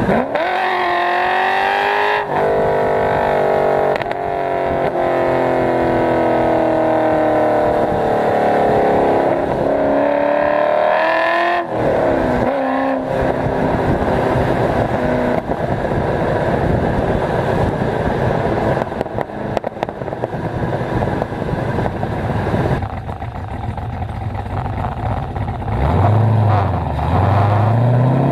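Cammed LS1 V8 in an HSV VY Clubsport R8, through long-tube headers and a 3-inch X-pipe exhaust, accelerating hard, its pitch climbing and then dropping sharply at each of several gear changes. Later it runs rougher at lower revs before revving up again near the end.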